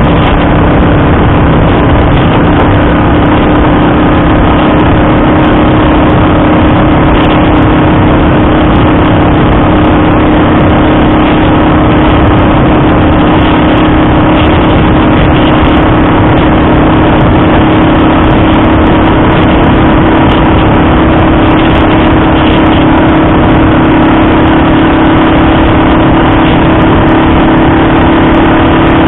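Honda Dream CL250's air-cooled parallel-twin engine running at a steady cruising speed, its note holding constant throughout.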